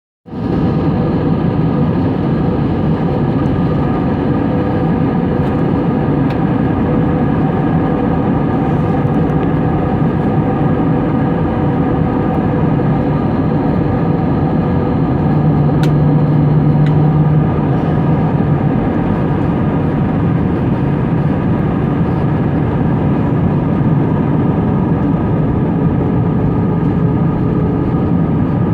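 Airliner cabin noise on approach: a steady roar of jet engines and airflow with several steady engine tones. A low hum swells briefly about halfway through.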